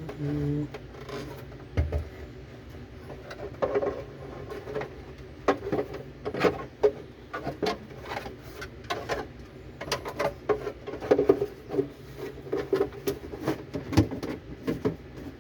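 Hands working with tools and parts: a busy, irregular run of clicks, taps and small knocks.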